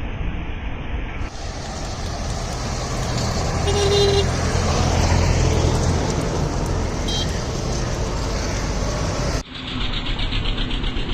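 Busy road traffic: vehicle engines running, with short horn toots about four seconds in and again briefly about seven seconds in.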